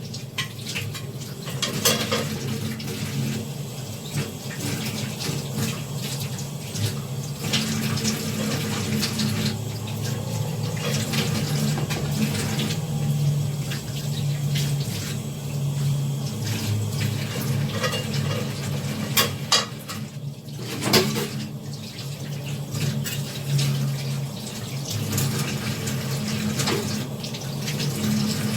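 Water running steadily, as from a tap, with a few sharp knocks or clatters, one about two seconds in and a cluster near two-thirds of the way through.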